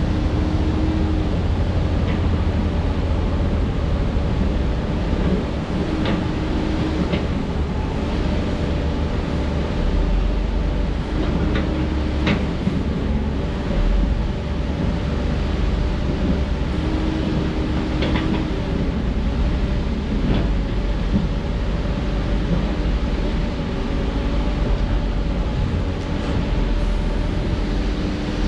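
Excavator's diesel engine running under load: a steady low rumble, with a whining tone that rises and drops away every few seconds as the machine works. About half a dozen sharp knocks, typical of the bucket striking rock, are scattered through it.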